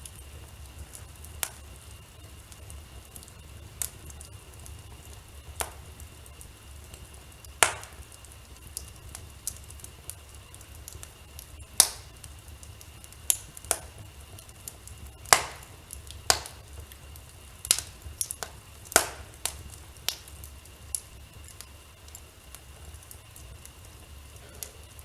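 Wood fire in a fireplace crackling: irregular sharp pops, sparse at first and busier and louder in the second half, over a faint steady low hum.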